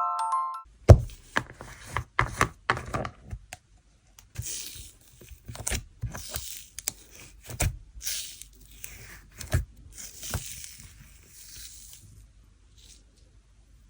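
Handling sounds: a few sharp clicks and scrapes, then repeated bouts of rustling and tearing, as of plastic packaging being opened.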